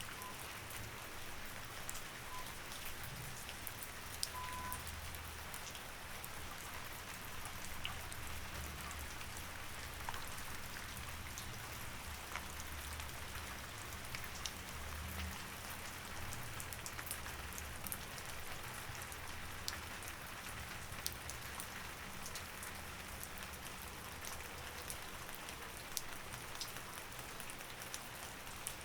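Steady rain falling, with many individual drops ticking sharply through it and a low rumble underneath.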